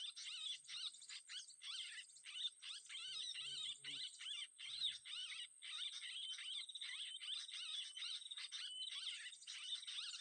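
Continuous fast chirping and twittering bird song, short repeated notes several times a second, over a steady high-pitched whine.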